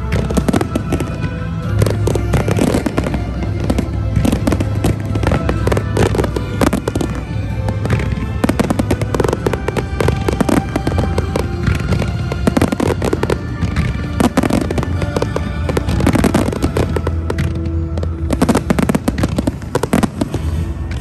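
Large fireworks display: a continuous rapid string of shell bursts, bangs and crackles, over music playing with the show.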